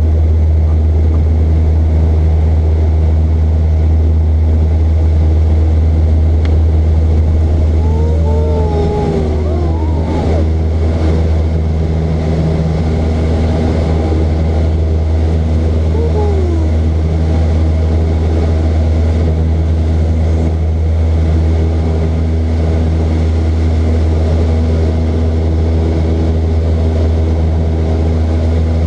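Small propeller aircraft's engine running steadily, a constant low drone. A few short falling tones come through about eight to eleven seconds in and again around sixteen seconds.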